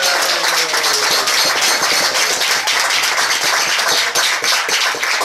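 A group of people applauding, with dense hand-clapping throughout and a few voices calling out in the first second or so.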